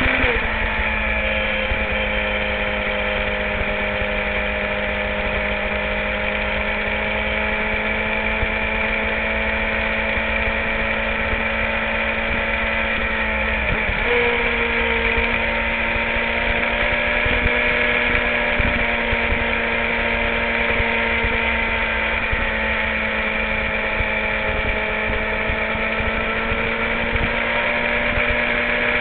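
Sport motorcycle engine running steadily at cruising speed, heard from a camera on the tail, with wind rumble on the microphone. The engine note dips briefly about halfway through, then settles again.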